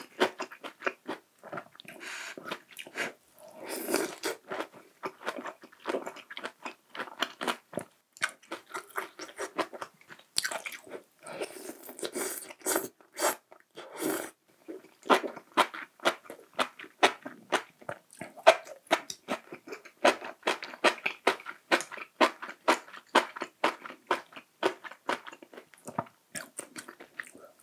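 Close-miked eating: a person chewing and biting in quick, irregular, wet mouth clicks and smacks, with crunchy bites mixed in.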